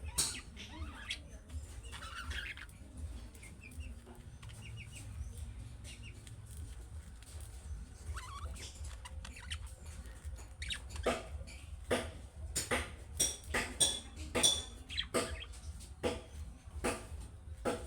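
Budgerigars chattering: soft warbling at first, then in the second half a fast, dense run of short sharp chirps and clicks. A steady low hum runs underneath.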